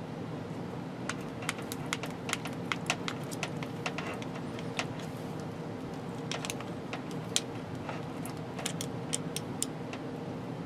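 Wiring work by hand: irregular sharp clicks and light taps of tools and wire being handled, over a steady hum.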